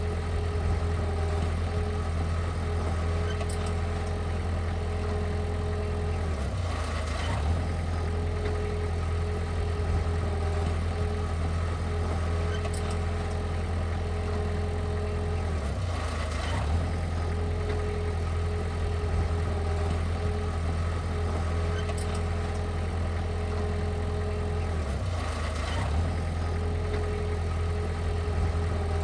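Heavy machine's diesel engine running steadily at a low, even pitch, with a brief dip and knock three times, about nine seconds apart.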